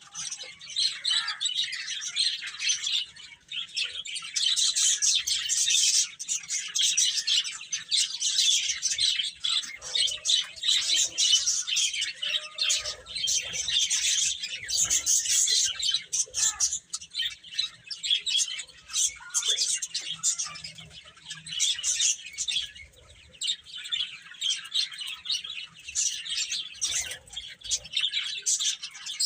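A brood of baby chicks peeping nonstop, many high, short chirps overlapping.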